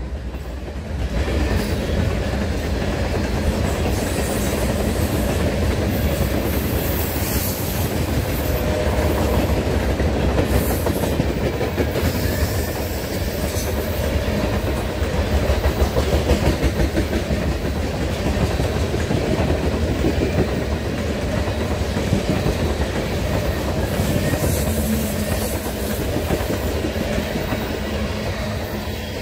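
Loaded ballast hopper cars rolling past at close range: a steady rumble of steel wheels on rail, with rapid clicking as the trucks pass over the track.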